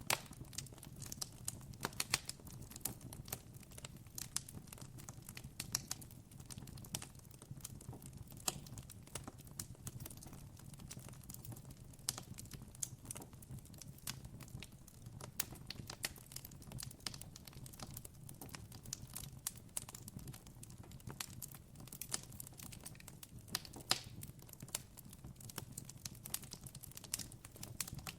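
Wood campfire crackling: a dense run of irregular small pops and snaps, a few of them louder, over a low steady rumble.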